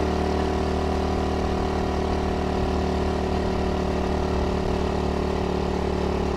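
SSR110 pit bike's small single-cylinder four-stroke engine idling steadily, its pitch holding level with no revving.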